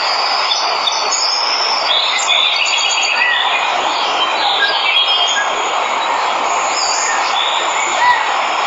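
Steady rush of a waterfall, with many birds chirping and trilling over it and a short, arched call repeating a few times.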